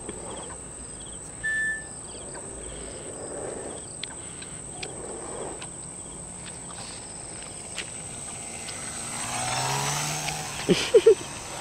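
Crickets chirping in a steady high drone. A broad sound swells and fades about nine to eleven seconds in.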